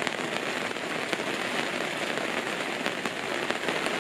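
Steady rain falling on a camper awning, with many small drop taps on its clear plastic panel.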